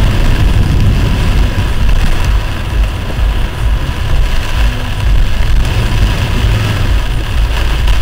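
Loud, steady low rumble of a car's engine and road noise, as picked up by a dashcam microphone inside the car.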